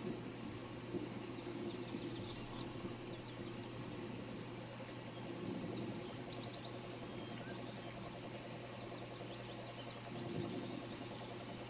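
Steady rain hiss with short, high bird chirps scattered through it, coming in quick little runs around the middle and again near the end.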